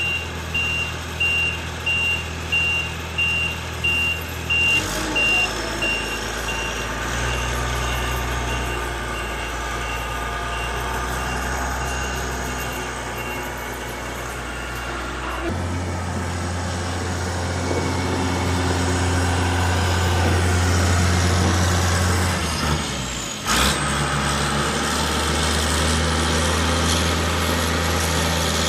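A heavy vehicle's engine running, with its reversing alarm beeping about once a second. The beeping fades out about halfway through, while the engine note changes and grows louder later on.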